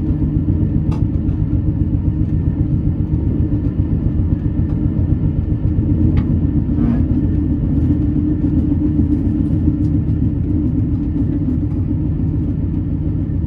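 Sleeper train running along the line: a steady low rumble of the wheels and carriage, with a few faint clicks.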